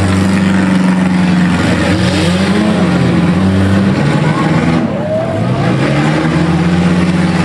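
Demolition derby cars' engines running and revving, several at once, their pitch repeatedly rising and falling as the cars push against each other.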